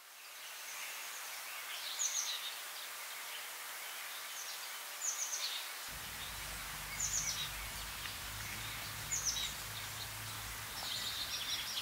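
A songbird calling repeatedly: short, high calls that sweep downward, one about every two seconds, over a steady outdoor hiss. A low rumble comes in about halfway.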